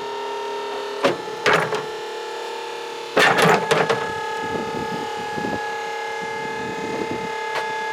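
Electric motor-driven hydraulic pump of a Piaggio Porter S90 electric garbage truck whining at a steady pitch while the body mechanism works, with metal clanks about a second in and a louder rattling clatter around three seconds in.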